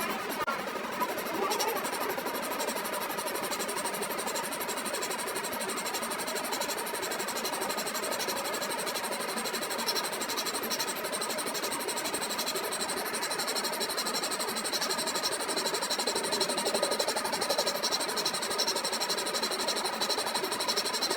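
Steady noise of metalworking machinery running, with a faint high whine that grows slightly louder in the second half.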